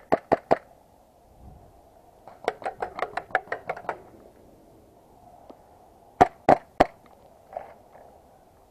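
Airsoft pistols firing in short strings of sharp pops: four quick shots, then a rapid run of about a dozen, then three evenly spaced shots.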